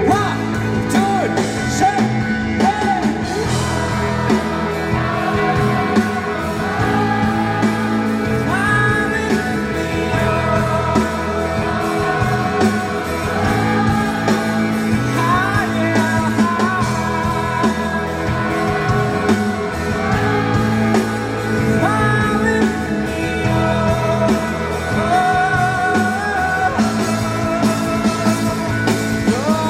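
Live rock band playing with guitars, and voices singing the chorus melody over it, the audience singing along on a repeat of the chorus.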